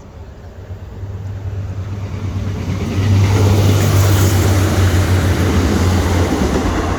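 Diesel train passing close by: the low engine hum and wheel-on-rail noise build over the first few seconds, stay loud, then begin to fade near the end.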